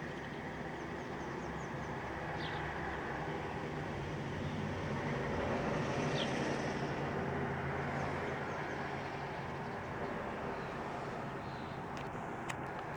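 Low vehicle rumble outside that swells to a peak midway and then eases off, with a couple of short, high bird chirps. A few sharp clicks come near the end.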